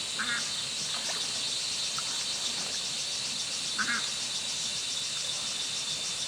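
A duck quacking a few times, with two clearer short quacks about a second apart at the start and nearly four seconds in. Behind it runs a steady high-pitched pulsing chorus of small creatures.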